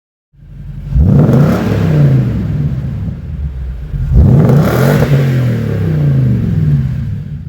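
2019 Toyota Tundra V8 exhaust with an aftermarket FlowMaster FlowFX muffler, revved twice from idle. Each rev is a quick rise in pitch, the first about a second in and the second about four seconds in, each dropping back down.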